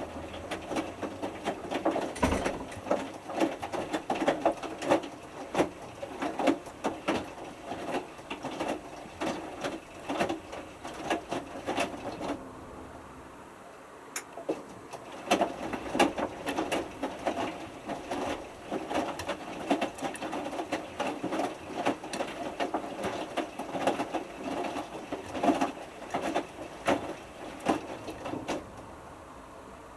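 Hotpoint Futura HF8B593 washing machine drum tumbling a small load during the main wash, with an uneven run of knocks and swishes as the clothes drop inside the drum. About halfway through the drum stops for a couple of seconds as the tumble pattern changes, then tumbles again.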